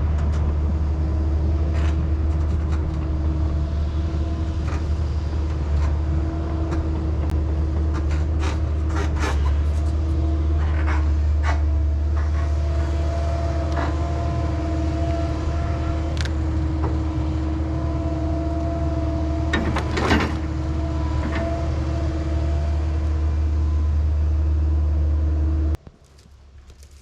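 An engine running steadily at a constant speed, with a low rumble and scattered clanks and cracking knocks over it; it cuts off suddenly near the end.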